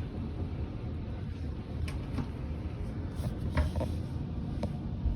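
A few light, separate clicks and knocks, like things being handled and set down, over a steady low background rumble.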